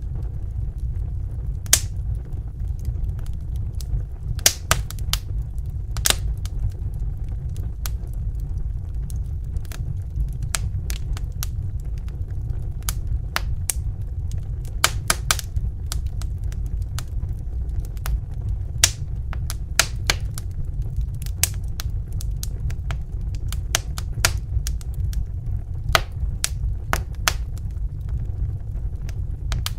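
Wood fire crackling in a fireplace: irregular sharp pops and snaps, several a second at times, over a steady low rumble of burning.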